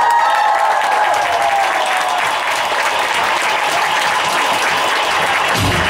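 Audience applauding at the end of a song, with a held high tone sliding slowly down and fading over the first two seconds. The band's low end comes back in just before the end.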